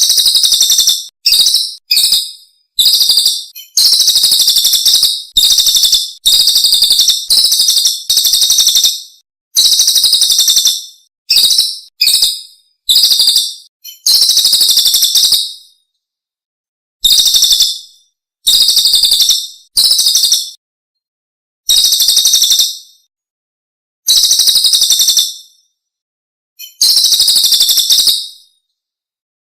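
Recorded songbird song played as a training master track: a rapid, very high-pitched chattering song in about fifteen bursts, each under two seconds, separated by short gaps of dead silence.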